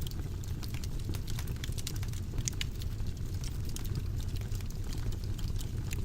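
Wood fire crackling: a steady low rumble of flames with frequent small, irregular pops and snaps.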